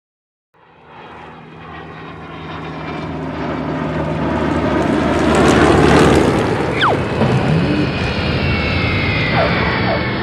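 Propeller airplane engine passing by: it swells in from silence, is loudest about six seconds in, then drops slightly in pitch as it moves away. A short falling whistle sounds just after the peak.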